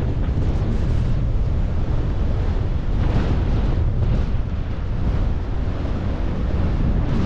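Strong wind buffeting the microphone: a steady low rumble that gusts a little louder about three seconds in.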